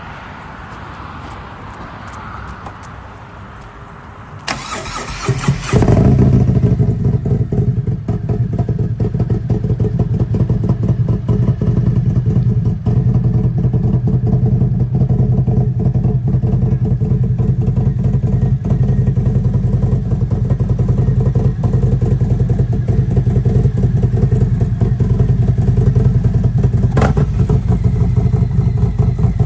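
Harley-Davidson Freewheeler trike's V-twin, fitted with performance cams and a Vance & Hines exhaust, cranking on the starter about four seconds in, catching a second or so later, then idling loudly and steadily through the aftermarket exhaust. There is a short sharp sound near the end.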